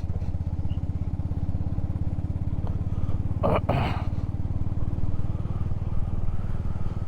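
Motorcycle engine running steadily with an even, rapid pulse, heard from on the bike while riding. A brief voice cuts in about halfway through.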